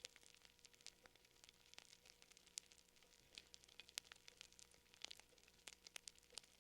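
Faint wood fire crackling, with irregular sharp pops and snaps, several a second, over a soft steady background.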